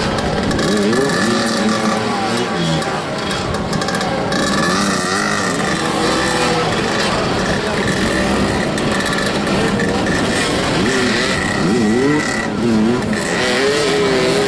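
Several motoball motorcycles revving, their engines rising and falling in pitch over one another as the riders chase the ball, with tyres scrubbing on the pitch.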